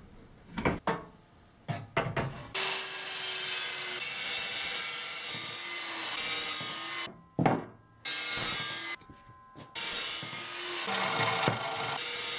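Power tool cutting steel angle iron: a steady hissing cut with a faint wavering motor tone under it. A few short knocks come first, and the cut breaks off briefly twice.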